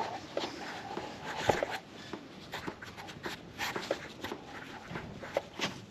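Irregular light clicks, taps and rustling handling noises, with a faint background hiss.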